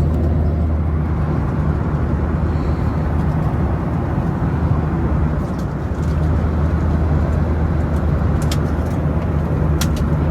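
Steady cabin noise inside a Boeing 737-800 in flight: a constant low engine and airflow drone. A few light clicks are heard in the second half.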